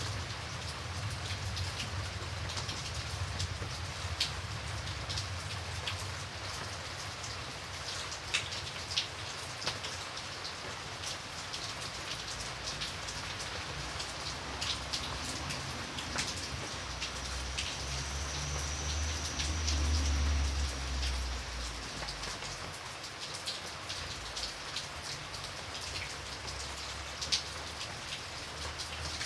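Steady rain falling, with individual raindrops ticking sharply on a window pane at irregular moments. A low rumble swells up near the middle and fades away a few seconds later.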